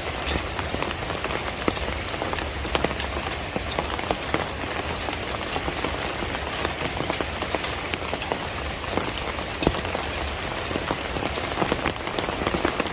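Steady monsoon rain falling, an even hiss scattered with many sharp taps of single drops landing close by.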